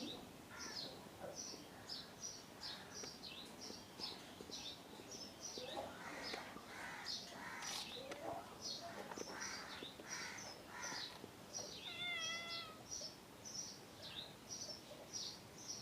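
A small bird chirping over and over, short high chirps about twice a second, with rougher calls from other birds in the middle and one short wavering call near the end.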